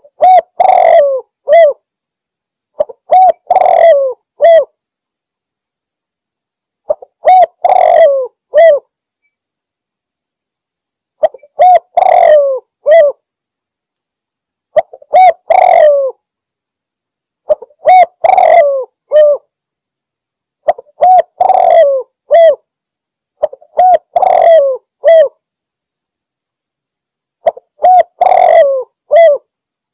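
Spotted dove (tekukur) cooing: phrases of several short coo notes, each about a second and a half long, repeated about every three seconds with silence between, as a male calls out to a rival.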